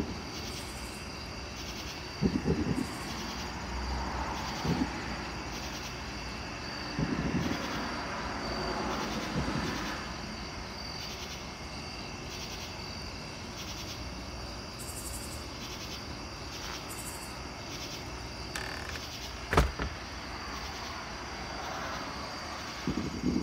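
Crickets or other night insects chirping steadily at a high pitch, with a broad rumble that swells and fades twice and a few short low thumps, one sharp knock near the end.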